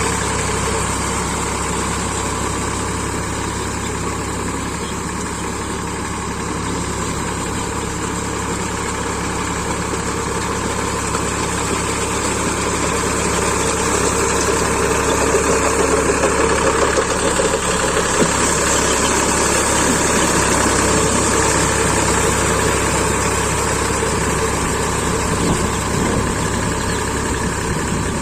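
Powertrac 445 DS Plus tractor's diesel engine running steadily, growing a little louder about halfway through.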